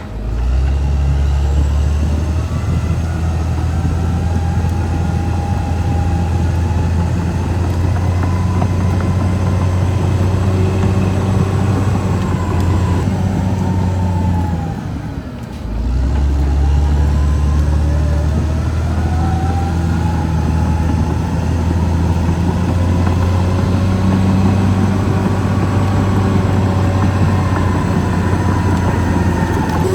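Caterpillar D6R XL bulldozer's diesel engine running steadily under load, a deep drone with a whine above it that rises and falls in pitch. The sound dips briefly about halfway through, then picks back up.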